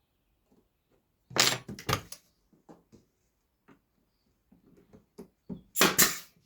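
Brad nailer firing in two short bursts of sharp shots, about four seconds apart, fixing wooden pieces together. Lighter knocks of wood being handled come in between.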